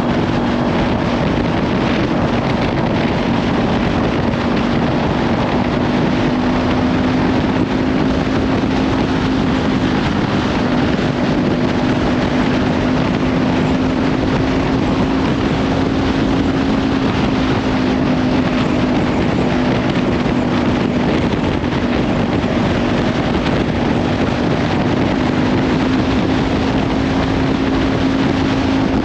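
Kawasaki Ninja 500 parallel-twin engine through a Leovince slip-on exhaust, running at a steady cruise with its note drifting only slightly up and down. Heavy wind noise on the microphone runs over it.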